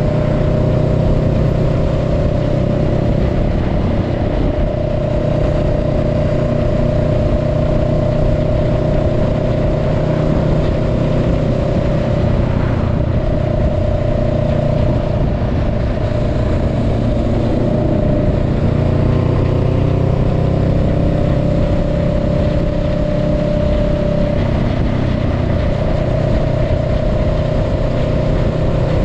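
Honda Rebel 500's parallel-twin engine running at a steady cruise, with a continuous rush of wind and road noise. The engine note eases down slightly past the middle, then steadies.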